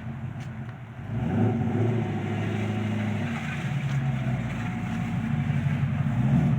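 A vehicle engine running steadily, louder from about a second in.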